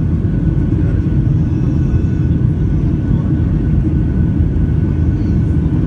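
Boeing 737-800's CFM56-7B jet engines running during take-off, heard from inside the passenger cabin as a loud, steady rumble with a faint higher whine.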